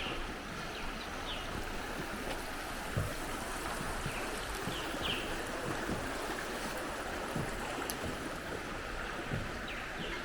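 A steady rushing noise, with a few short high chirps and some soft low thumps scattered through it.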